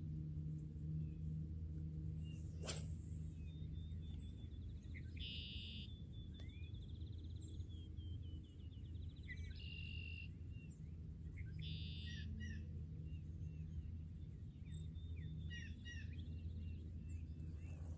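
Songbirds chirping and trilling outdoors, with a few louder bursts of calls, over a steady low hum. A single sharp click about three seconds in.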